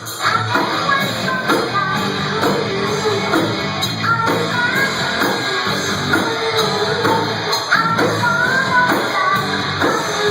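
Live rock band playing a hard-rock song loudly: electric guitars, bass and drums with a bending melody line on top, recorded from the room.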